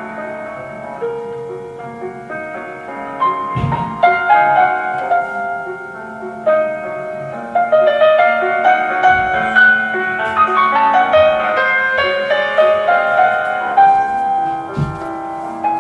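Solo piano playing a romantic-style classical piece, the texture thickening and growing louder about four seconds in and again about eight seconds in.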